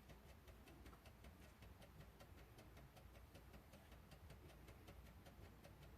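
Near silence: room tone with a faint low hum and faint, rapid, evenly spaced ticking.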